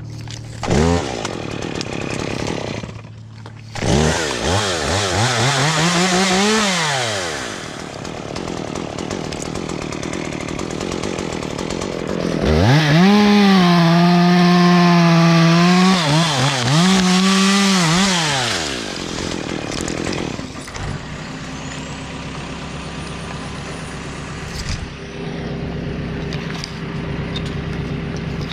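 Chainsaw engine revved up and down several times, then held at high revs for about six seconds in the middle before dropping back to a low steady idle.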